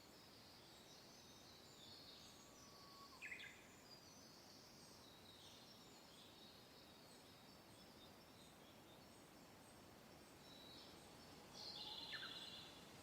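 Faint birdsong, several small birds chirping and trilling over a soft, steady hiss of wind. Two calls stand out louder, one about three seconds in and one near the end.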